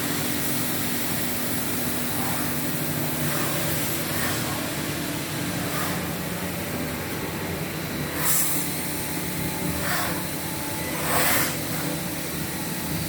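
Steady running noise of a 5-axis CNC wood router, with a constant hum under it and two short, louder hissing bursts about 8 and 11 seconds in.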